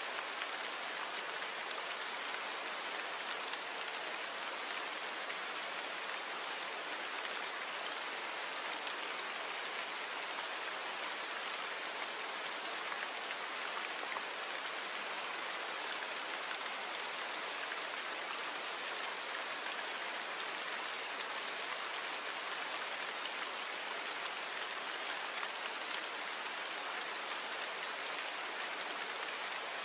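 Steady rain falling and pattering on a surface, an even hiss of many drops with little low rumble and no change in intensity.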